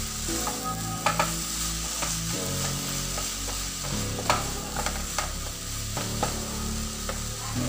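Minced chilies frying and sizzling in a frying pan while a black plastic slotted spatula stirs and scrapes them, with a few sharper knocks of the spatula against the pan.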